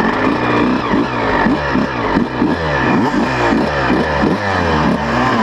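A 125cc two-stroke motocross bike engine revving up and down over and over, about two quick rising-and-falling sweeps a second.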